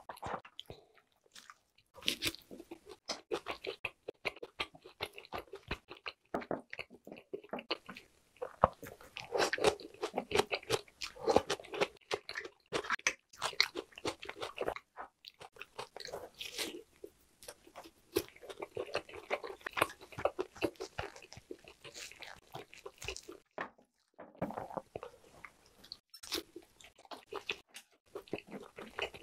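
Close-miked chewing and biting of grilled lamb skewer meat: many quick, irregular wet mouth clicks and smacks, with brief pauses about a second in, around the middle, and a little before the end.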